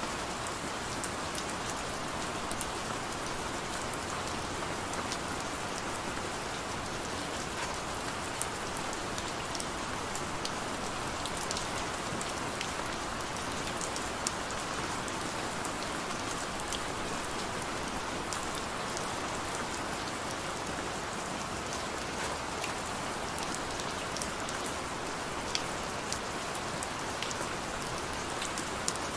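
Steady rain falling, a continuous hiss with scattered sharp ticks of single drops striking surfaces.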